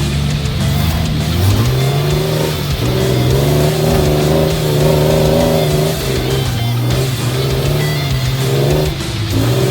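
A car engine running and revving, its pitch climbing about a second and a half in and again near the end, with background music.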